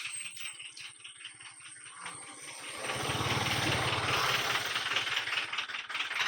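A vehicle engine running with some rattling, at a fast even pulse at first. The noise grows markedly louder and fuller about three seconds in.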